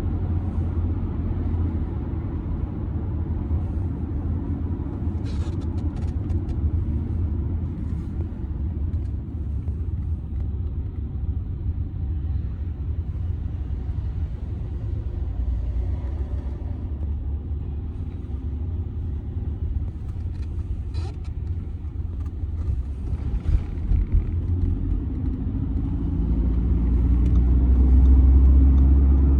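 Car cabin noise in a 2007 Audi A6 C6 2.0 TDI driving along: a steady low rumble of road and tyre noise with the four-cylinder turbodiesel underneath. The rumble grows louder near the end.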